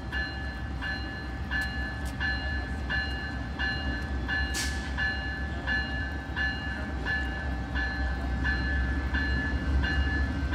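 Amtrak diesel locomotive approaching at low speed, its engine rumble growing steadily louder, with a bell-like ringing tone repeating about three times every two seconds and a brief hiss about halfway through.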